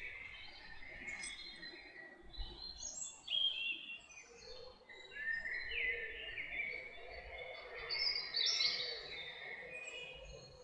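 Several songbirds singing at once, a busy dawn-chorus-like mix of overlapping whistled and chirping phrases, loudest about a third of the way in and again near the end.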